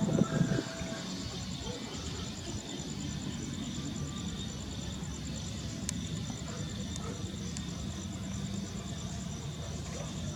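A steady, rapidly pulsing high-pitched insect trill, like crickets, over a constant low rumble of outdoor background noise. There is a brief louder low sound at the very start.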